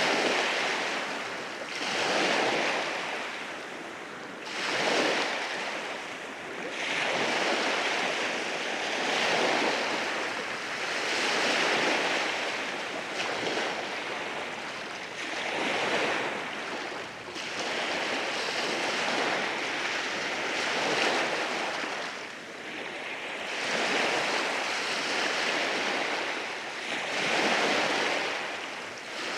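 Waves breaking and washing over rocks at the shore, a rushing surge that swells and falls back every two to three seconds.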